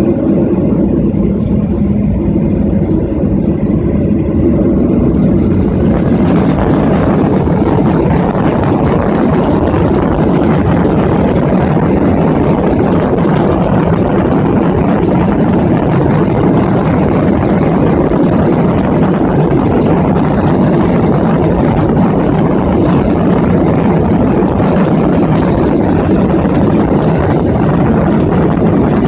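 Boeing 737-800's jet engines heard from inside the cabin, spooling up to takeoff thrust with a rising whine, then about six seconds in a loud, steady roar that holds through the takeoff roll.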